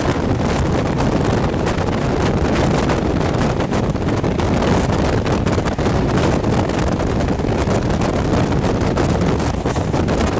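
Wind rushing and buffeting across the microphone held out of a moving passenger train's window, over the train's steady running noise.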